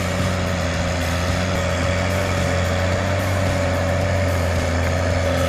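Tractor engine running steadily under power, at an even pitch with only a slight waver.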